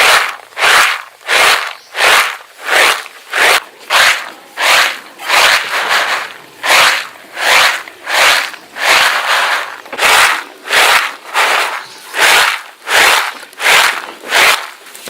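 Rhythmic swishing, scraping strokes, about three every two seconds, steady throughout, each a short rasp with little low thud.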